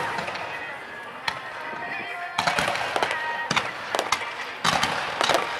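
Aerial firework shells exploding in a display. The echo of a big burst dies away, then a rapid string of sharp bangs starts about two and a half seconds in. Music plays faintly underneath.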